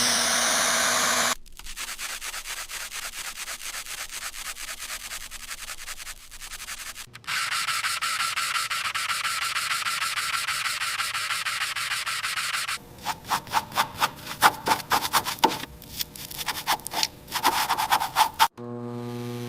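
Abrasive sanding and rubbing on a surface in several passes: a fine, rapid rasping, then a louder steady sanding, then a run of quick separate scrubbing strokes, about three a second.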